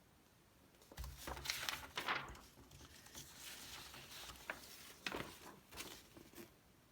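Magazine pages being handled and turned: paper rustling with a few soft thumps, starting about a second in and dying away near the end.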